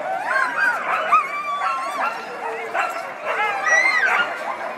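A team of harnessed sled dogs barking, yipping and whining all at once in an unbroken din, many short calls rising and falling in pitch over one another: the excited noise of dogs straining to go at a race start.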